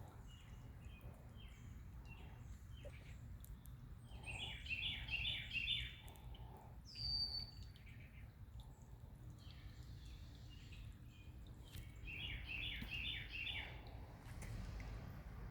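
A bird singing: two quick runs of high chirps, one about four seconds in and one near the end, with a single short whistle in between, over a steady low outdoor rumble.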